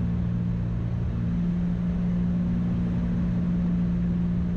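Steady drone of a piston-engine Cessna's engines and propellers in the cabin on the landing approach: a few low even tones over a constant hum.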